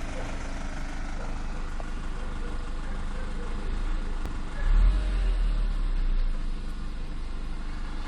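Warm 1.8T four-cylinder turbo petrol engine (AVJ) idling steadily with an unwanted noise from behind the engine, which the owner suspects comes from the cam chain tensioner or the oil pump. About halfway through, a louder low rumble rises for a second or so, then drops back.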